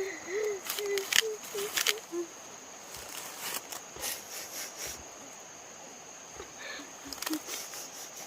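Steady high insect trill, typical of crickets, with scattered sharp clicks and knocks over it and a short run of small pitched chirps in the first two seconds.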